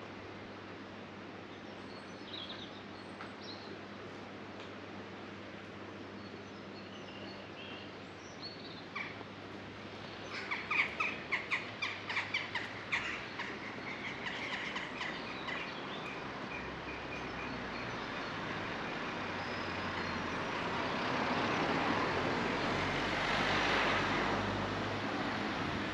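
Outdoor background noise with a bird giving a quick run of chirps about ten seconds in. After that a broad rushing sound swells and peaks near the end.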